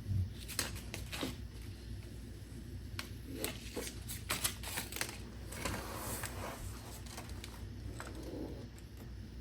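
Vinyl decal being pressed and rubbed down onto a car's rocker panel to work out air bubbles: a quiet, irregular string of light taps, rubbing and short squeaks.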